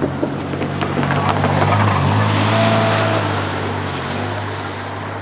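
Commuter train crawling past, its wheels clicking irregularly over the track for the first second or so over a steady low hum. A short thin squeal comes about two and a half seconds in.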